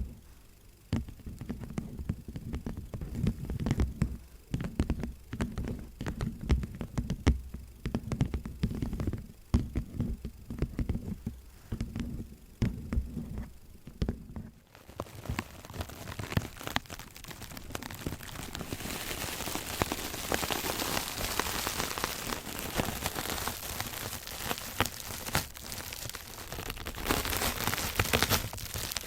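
Irregular quick taps and clicks over a low rumble, changing about halfway through to a dense, crackly rustling hiss.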